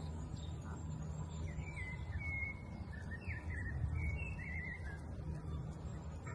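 Songbird singing a string of short, warbling chirps for a few seconds, over a steady low rumble.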